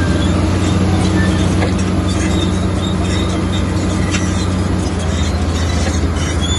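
Komatsu crawler bulldozer's diesel engine running steadily, with the clatter and short high squeaks of its steel tracks.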